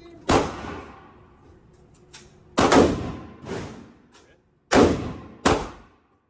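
A series of sharp, heavy hits, five of them, each fading away over about half a second.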